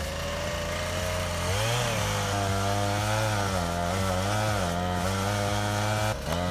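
Chainsaw engine running, its pitch dipping and recovering again and again as the chain is loaded in a cut. It cuts off near the end.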